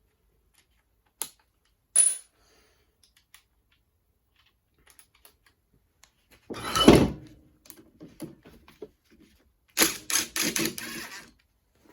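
Intermittent metallic clinks and clatters of hand tools and parts being handled: a few single clicks, a louder clatter about seven seconds in, and a quick run of clatters near the end.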